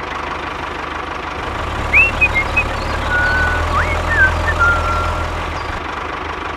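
Engine running steadily with a hiss and a low hum that swells in the middle, and a few short rising and falling whistles about two to four seconds in.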